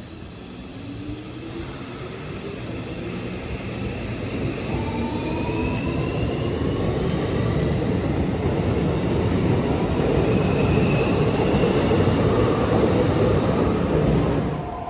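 Keikyu electric train pulling out, its traction motors whining in several tones that climb steadily in pitch as it accelerates. Wheel and running rumble under the whine grows louder as the cars pass close by, then drops away near the end.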